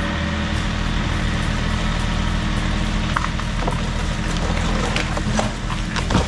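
An engine running steadily at a constant pitch, with a few sharp snaps or cracks in the second half.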